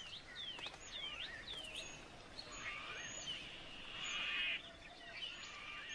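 Wild birds calling: a run of short, downward-sliding chirps about twice a second, then a few buzzy trills in the middle and near the end, over a faint natural background.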